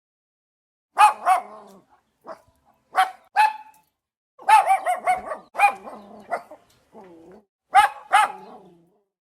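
A dog barking in short bursts: pairs of sharp, fairly high-pitched barks, then a quicker run of barks, with silent gaps between.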